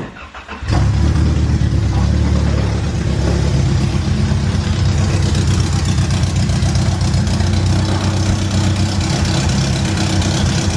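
Honda CRX's four-cylinder engine starting on the choke, catching less than a second in, then running steadily.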